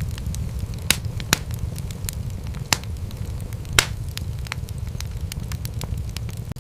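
Wood fire crackling in a fireplace: a steady low rumble of flames under a run of scattered, irregular sharp pops, a few louder snaps about a second in and just before four seconds.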